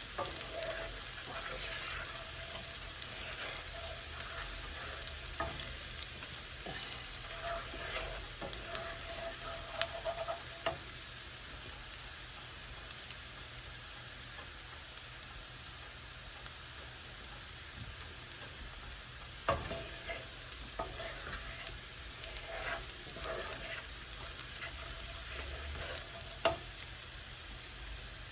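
Diced shallots sizzling steadily in melted butter in a skillet over turned-down heat as they soften. A utensil stirs and scrapes the pan now and then, with a few sharper taps.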